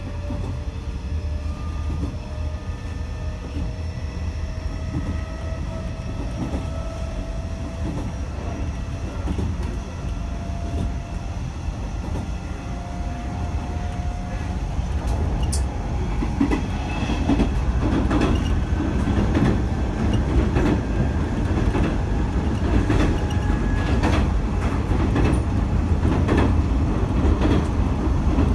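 Hanshin 1000 series electric train heard from inside the car. Its Mitsubishi IGBT two-level VVVF inverter and traction motors whine in several tones that slowly rise in pitch as it accelerates. From about halfway, the rumble of the wheels on the rails grows louder, with sharp clicks from the rail joints.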